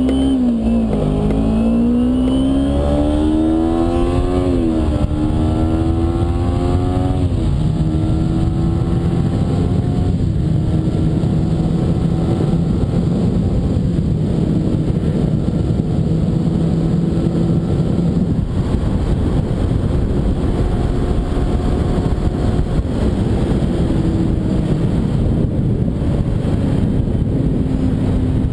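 2009 Kawasaki Ninja 250R's parallel-twin engine under way: its pitch climbs and drops through three upshifts in the first several seconds, then holds steady at cruising speed, over heavy wind and road noise.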